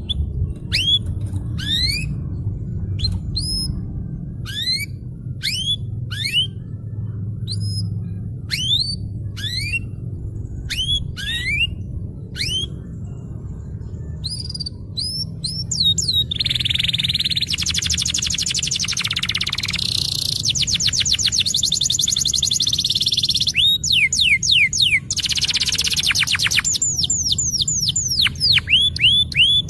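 Domestic canary singing: a string of separate upswept whistled notes, roughly one a second, then from about halfway a fast rolling trill that runs on with short breaks, the 'ngerol' rolling song. A low steady hum lies underneath.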